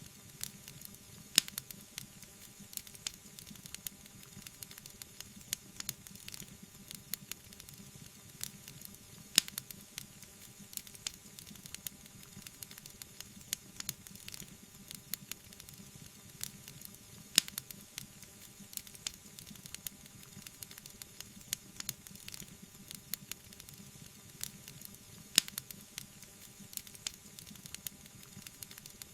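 Wood fire crackling and hissing: a steady soft hiss under constant small pops and ticks, with a sharp louder pop about every eight seconds.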